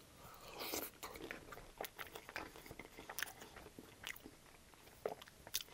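A person chewing a forkful of poutine (fries with cheese curds and gravy), picked up close by a lapel mic. There is a soft bite about half a second in, then faint, scattered wet mouth clicks.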